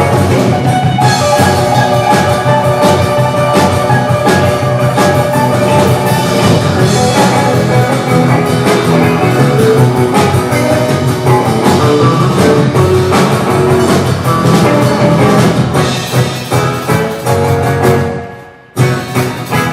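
Live band playing an instrumental passage with no singing. The music drops out for a moment about a second before the end, then comes straight back in.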